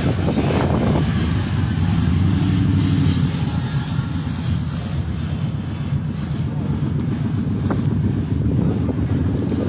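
A vehicle engine running with a steady low rumble, strongest in the first few seconds.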